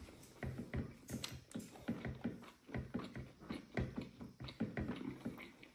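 A person chewing a mouthful of fried pork and rice close to the microphone, with irregular wet smacking and clicking mouth sounds several times a second.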